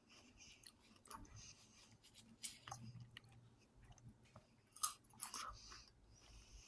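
Faint, close-up chewing of crunchy raw white vegetable sticks coated in Tajín, with a few sharp crunches, the loudest about two and a half and five seconds in.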